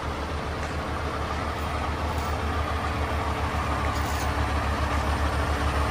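Heavy crane tow truck's diesel engine running at a steady, pulsing low rumble.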